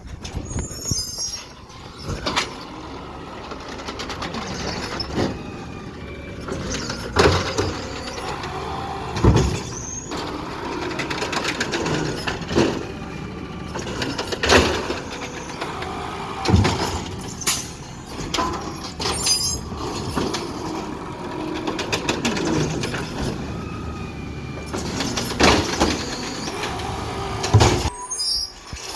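Garbage truck at work: a running engine under repeated loud metal clanks and bangs every couple of seconds, with squeaks and a hiss of air brakes.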